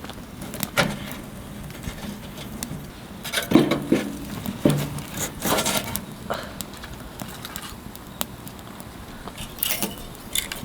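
Intermittent clatter, clicks and scraping of small objects being handled, with a few louder knocks about a third and halfway through and again near the end.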